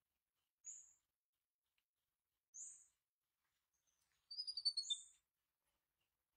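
Small birds chirping: a short, very high chirp about every two seconds, and a quick run of descending twittering notes around four to five seconds in, the loudest sound.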